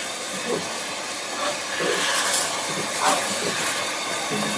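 Steam locomotive No. 15 Caledonia working hard at walking pace up a gradient: slow, uneven exhaust beats over a steady hiss of steam. The labouring beat is the sign of the engine struggling for adhesion on greasy rails.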